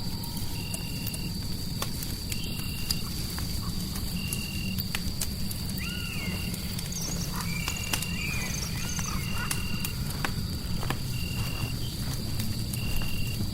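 Layered fireplace ambience: a crackling fire with scattered pops over a low rumble, a steady high whine, and a short high chirp repeating about once a second. Warbling animal calls come in around the middle.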